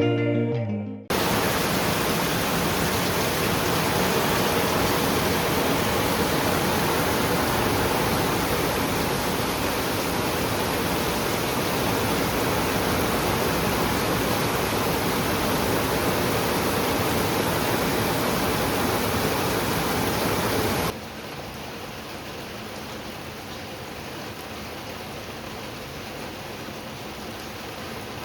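Steady rain falling, an even hiss with no separate drops standing out. About 21 seconds in it cuts abruptly to a quieter, steady rain.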